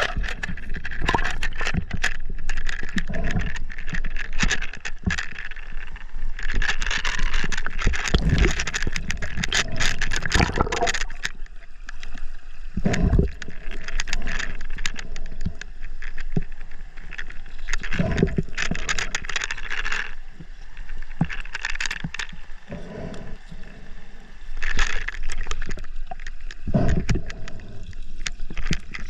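River water splashing and gurgling, with frequent knocks and scrapes against the action camera.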